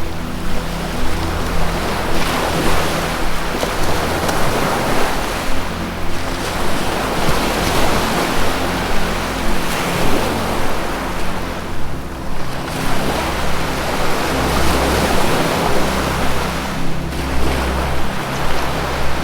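Ocean surf washing in long surges that swell and ebb about every five to six seconds, under low held music notes that change pitch every few seconds.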